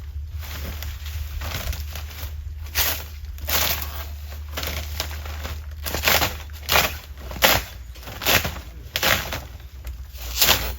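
A series of crunching, crackling noises, roughly one every second or less, stronger in the second half, over a steady low hum.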